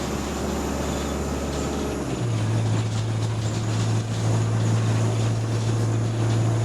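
A bus engine heard from inside the passenger saloon, running at a low steady note that steps up sharply to a higher, louder pitch about two seconds in and then holds there, as the bus pulls away.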